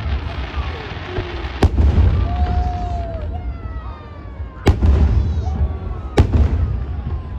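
Fireworks going off: three sharp bangs, about a second and a half in, near five seconds and a second and a half after that, with whistling fireworks falling in pitch between them over a steady low rumble.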